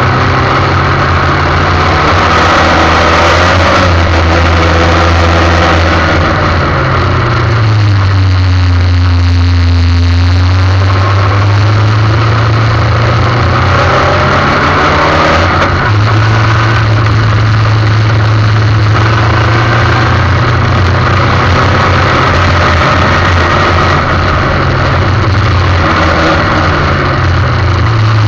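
Formula 1600 race car's engine running at speed, its pitch dropping as it comes off the throttle and shifts around seven seconds in and again briefly at about fifteen seconds, then holding steady, over a constant hiss.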